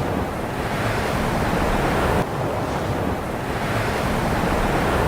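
Steady roar of rushing water with wind on the microphone. The sound changes abruptly about two seconds in.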